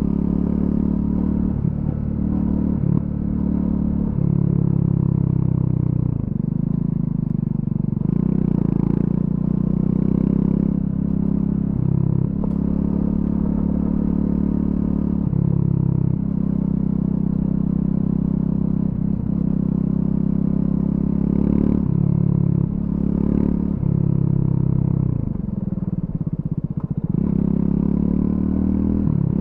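Triumph Scrambler 400X's single-cylinder engine through its stock exhaust, ridden on gravel, its pitch stepping up and down several times with throttle and gear changes.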